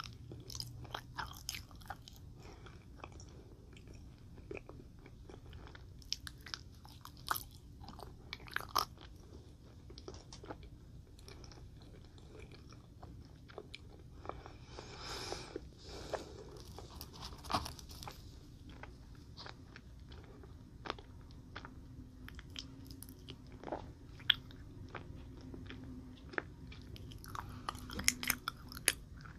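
Close-miked chewing of a gummy watermelon jelly candy: scattered wet, sticky mouth clicks and squelches. There is a brief breathy hiss about halfway through and a denser run of louder clicks near the end.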